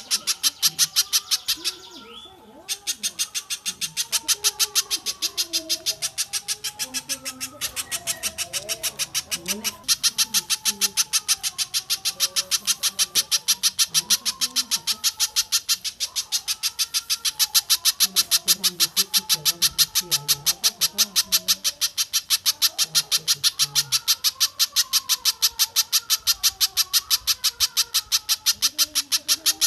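Masteran birdsong recording: a rapid, steady run of sharp high chip notes, several a second, typical of a spiderhunter's call, with a short break about two seconds in. Lower wavering bird calls run beneath it.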